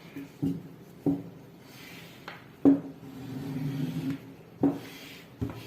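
Fabric being marked out on a wooden table for blouse cutting: a tool scratching and rubbing across the cloth, with five sharp knocks as it is set down or tapped on the table.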